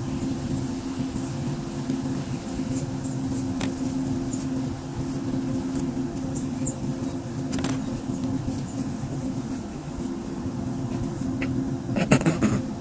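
A steady low mechanical hum, with a few faint clicks and a short, louder rustling noise near the end.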